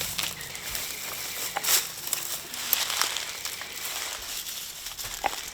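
Dry brush, leaves and branches rustling and crackling as they are handled and dragged into a pile, with a few sharp cracks.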